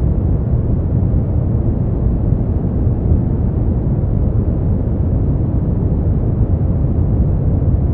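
Steady, unchanging synthetic noise played as a sleep aid, deep and muffled, with most of its weight in the low rumble and little hiss on top.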